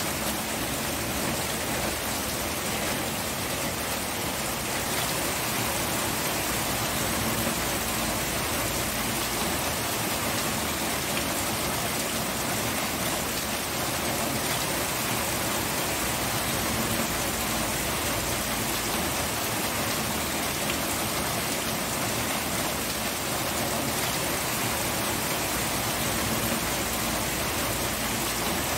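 Steady rain falling and pattering on surfaces, an even dense hiss of drops that holds level.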